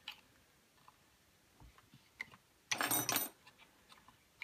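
Hands working on chainsaw parts during reassembly: a few faint ticks and a brief rattle of handled parts about three seconds in.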